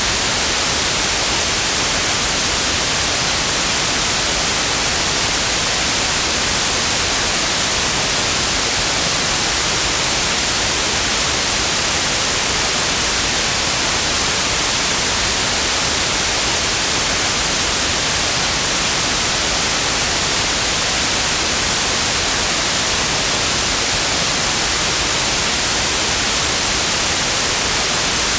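Pure white noise: a steady, even hiss, brightest in the high frequencies, with no change.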